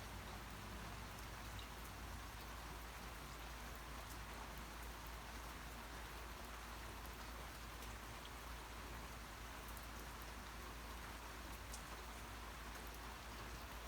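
Steady rain falling, a continuous patter with scattered faint drop ticks.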